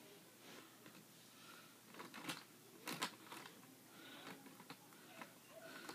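Near silence with a few faint, scattered light clicks and taps, two sharper ones about two and three seconds in.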